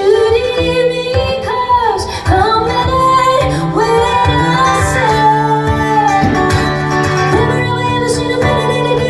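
A woman singing a song live with guitar accompaniment under her voice.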